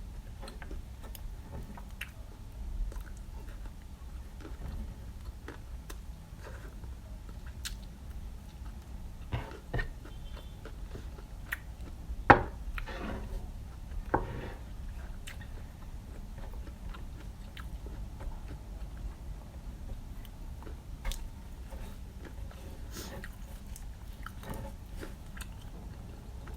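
Close-miked chewing and biting, with crunchy strokes from peanuts and fried chicken and utensil clicks, the loudest cluster of crunches about halfway through, over a low steady hum.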